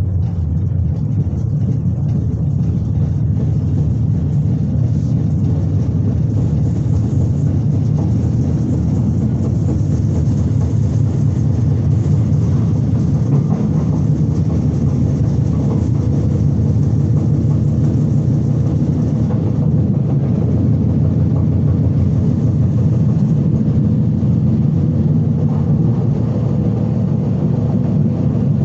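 Berlin S-Bahn class 485 electric train running at speed, heard from inside the passenger car: a steady low rumble of wheels and running gear with a faint steady hum. It gets a little louder in the first second, then holds even.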